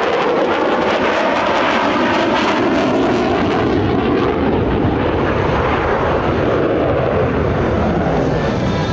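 F-16 fighter jet flying past with loud jet engine noise. The high hiss in the roar fades from about four seconds in as the jet moves away.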